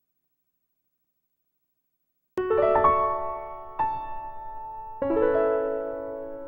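Piano music: after a couple of seconds of dead silence, a piano comes in with sustained chords, a new chord struck about a second and a half later and another a second after that.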